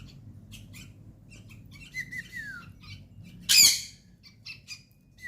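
Baby yellow-vented bulbuls begging while being hand-fed: a run of short chirps, a falling whistled call about two seconds in, and one loud harsh squawk about three and a half seconds in.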